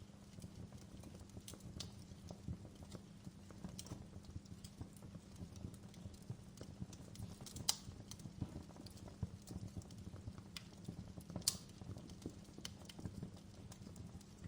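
Wood fire burning in a fireplace, crackling with irregular small pops over a low steady rumble, two sharper louder pops about halfway through and near the end.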